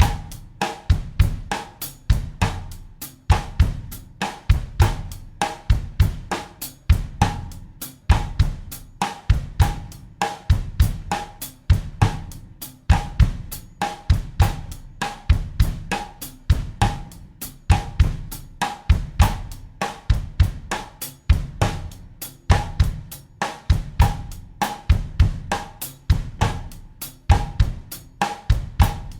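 Acoustic drum kit playing a steady bossa nova groove at 100 beats per minute in 4/4, with bass drum, snare and cymbals in an even, repeating pattern.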